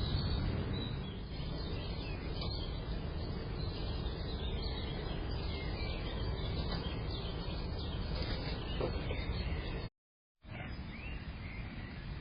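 Small birds chirping faintly over a steady background hiss of outdoor noise. The sound cuts out completely for about half a second near the end.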